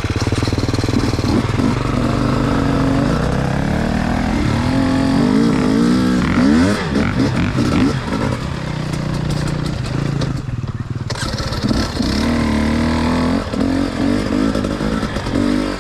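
Dirt bike running, its revs rising and falling repeatedly.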